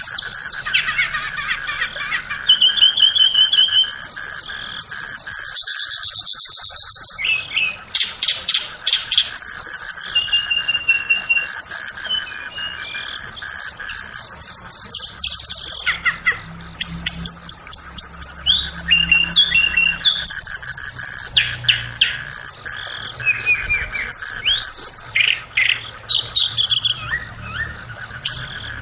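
Tledekan (flowerpecker) calling and singing: rapid high, thin chirps, runs of sharp ticks and short twittering trills. A steady high hum runs underneath.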